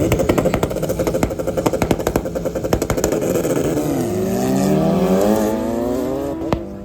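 Racing vehicle engine, loud, with rapid uneven pulses for the first few seconds, then revving up with a steadily rising pitch as it accelerates. A single sharp click comes near the end.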